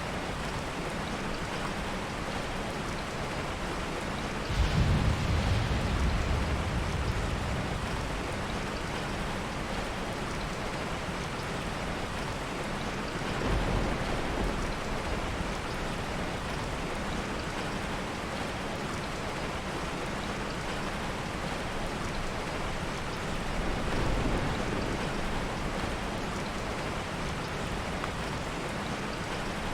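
Steady heavy rain, with three low thunder rumbles. The first, a few seconds in, is the loudest and fades over a couple of seconds; two softer ones come later.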